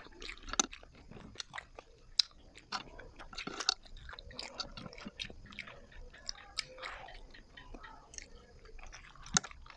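Close-up chewing and biting of a skewered street-food hot dog: soft chewing with a scatter of small, sharp mouth clicks.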